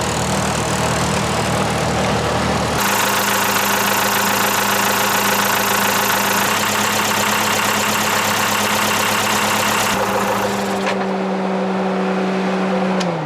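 Mercedes OM636 four-cylinder diesel engine running steadily under load at fairly high RPM. Near the end its note falls as the engine slows down.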